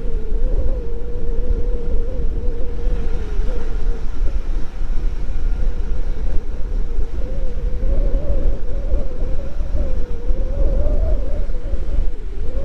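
Nissan Y62 Patrol four-wheel drive running along a bush track: a steady low rumble with a wavering whine running through it, edging a little higher in pitch in the second half.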